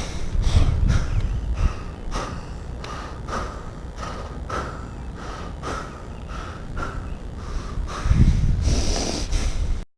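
A person breathing hard in quick, even breaths, about two a second, close to the microphone, over a low wind rumble; the breathing grows louder near the end.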